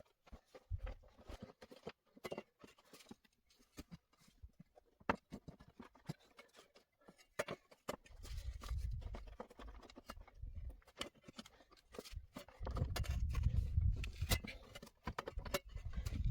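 Scattered clicks and knocks of things being handled, with two stretches of low rumbling noise, the second and louder about two-thirds of the way in.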